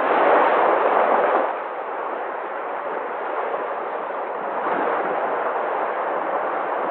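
Sea waves washing in: a continuous rushing wash, swelling loudest in the first second and a half and then settling into a steadier roar.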